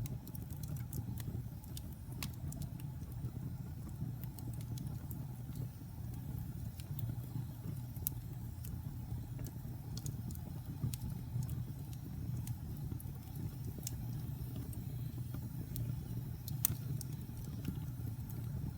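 Logs burning in a fireplace: a steady low rumble of flame with scattered sharp crackles and pops from the wood, the loudest pop shortly before the end.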